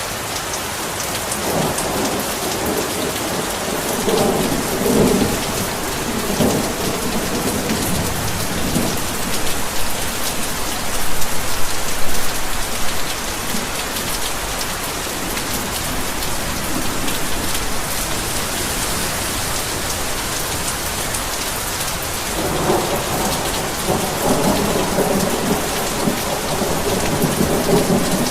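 Heavy rain falling steadily in a dense hiss, with low rolls of thunder from about a second and a half in and again in the last six seconds.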